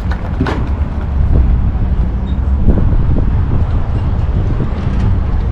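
Car engine running at idle, a steady low rumble that gets a little louder about a second in.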